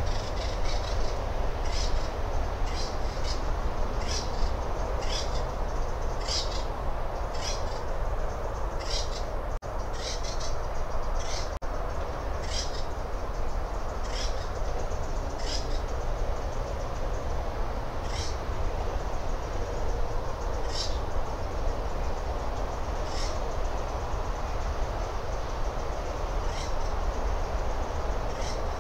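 Short, high bird chirps repeated over a steady low rumble and hiss of outdoor background noise. The chirps come about once a second at first and grow sparser after the first quarter.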